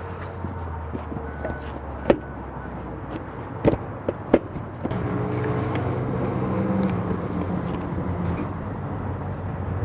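A motor vehicle engine running steadily, growing fuller about halfway through. A few sharp metallic clicks, like hand tools, sound over it near the middle.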